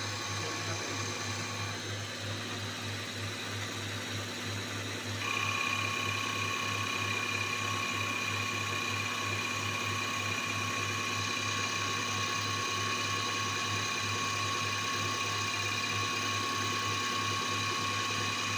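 Diesel injector test bench running a repaired common-rail injector, with a fast, even mechanical clicking that goes on without a break. About five seconds in, a steady whine joins and holds.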